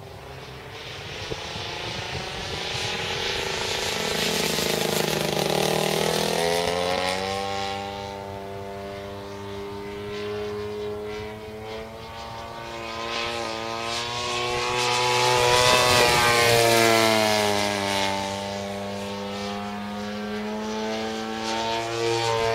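Engine and propeller of a 50cc Seagull Edge 540 radio-controlled aerobatic plane in flight, passing by twice. Each time it grows louder as it comes near and its pitch drops as it goes past, about five seconds in and again about sixteen seconds in.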